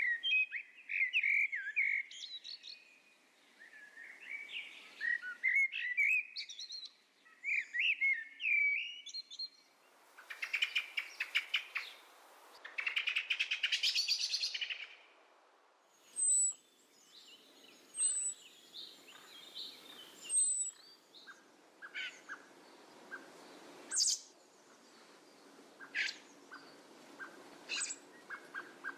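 Small birds chirping and singing, with varied warbling phrases, a couple of rapid trills partway through and short high chirps later on.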